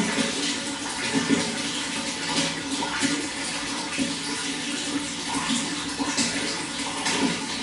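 Running water flowing and splashing steadily, with a constant uneven churning.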